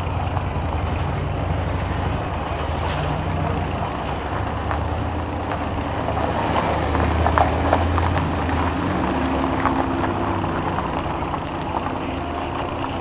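Heavy vehicle engines running steadily at low pitch, swelling louder about halfway through, with a few short sharp knocks or clacks in the middle.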